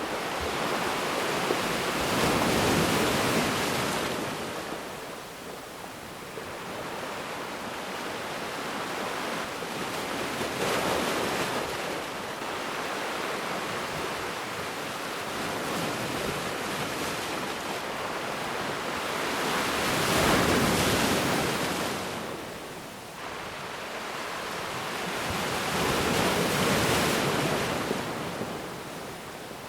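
Ocean waves washing onto a beach: a steady hiss of surf that swells into a louder surge about every seven to ten seconds and then falls back.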